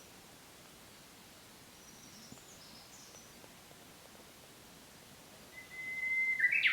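Outdoor birdsong: faint, high chirps about two to three seconds in, then near the end a louder whistled note held for about a second that breaks into a short, sharp flourish.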